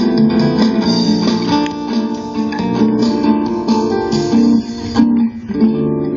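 Acoustic guitar music being strummed. About five seconds in it breaks off abruptly and a smoother, sustained musical sound takes over.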